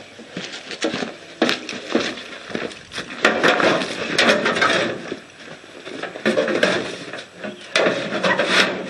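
Irregular knocks, clicks and scraping as a mower's rear cover is handled and fitted onto the chassis, with some louder rubbing stretches.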